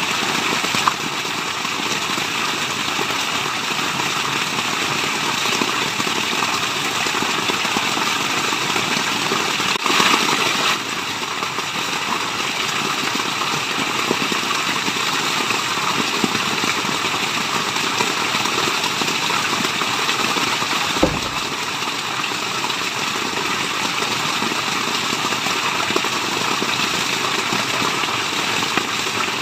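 Steady rush of falling water from a waterfall, an even hiss with no rhythm. It swells briefly about ten seconds in, and a single low thump comes about twenty-one seconds in.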